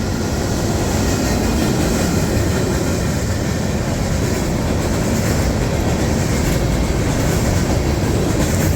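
Freight train cars rolling past, a loud steady rumble of wheels on rail.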